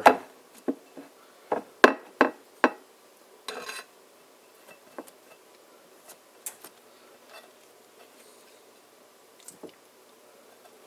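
Kitchen utensils and a frying pan being handled: a run of sharp clicks and knocks in the first three seconds, then a short scrape, then only a few faint ticks.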